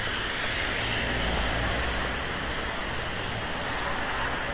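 Steady hiss of rain falling on a city street, with a low traffic rumble that swells briefly about a second in.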